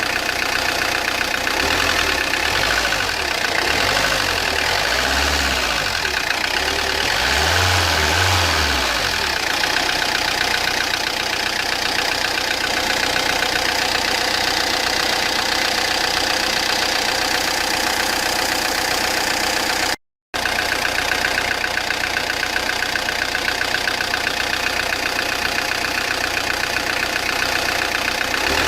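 Peugeot Partner 1.9 diesel engine running at idle, with the loud abnormal engine noise that its owner complains of, and a low throbbing through the first several seconds. The sound drops out for a split second about twenty seconds in.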